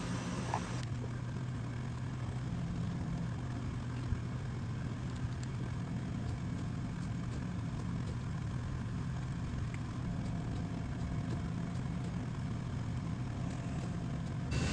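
Steady low machine hum of shop equipment, with no cutting sound; a higher hiss drops away about a second in, and there are a few faint clicks.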